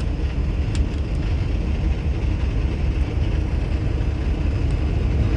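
Heavy-truck diesel engine idling steadily, heard from inside the cab of a 2019 Kenworth T680, with a light click just under a second in. Near the end the engine gets louder, the idle coming up as the parked DPF regeneration starts.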